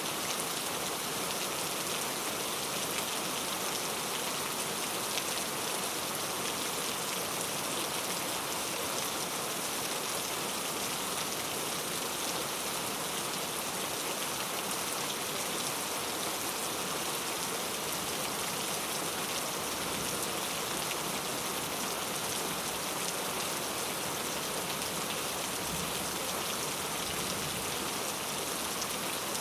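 Heavy rain falling steadily in a forest, an even hiss of drops with fine patter and no thunder.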